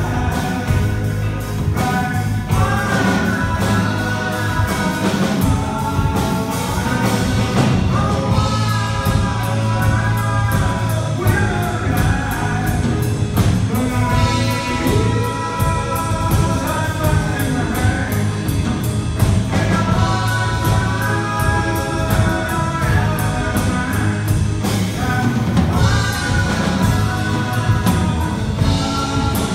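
Live band music with drum kit and guitar: a melody line over a steady beat and a sustained bass.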